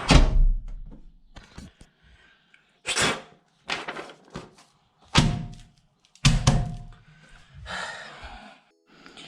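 A steady roar cuts off abruptly, followed by a string of separate thuds and knocks with silent gaps between them.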